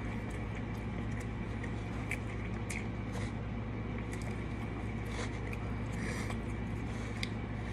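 A person chewing a mouthful of chicken sandwich, with small wet mouth clicks scattered through, over a steady low background hum.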